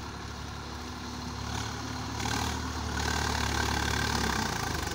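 Swaraj 963 FE tractor's diesel engine running steadily, getting louder about two seconds in and easing off again near the end.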